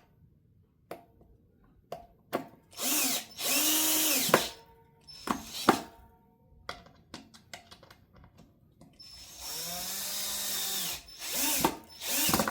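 Electric drill-driver driving guitar neck screws: two runs of about a second and a half each, the motor speeding up and then winding down, with short trigger blips between and near the end.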